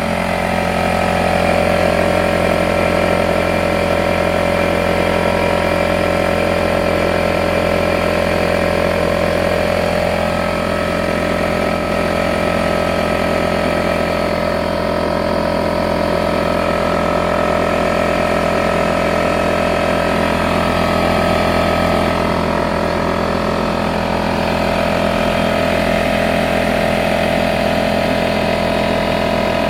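Craftsman 6-gallon air compressor running steadily, its motor and pump building tank pressure on the way to a 150 psi cut-out.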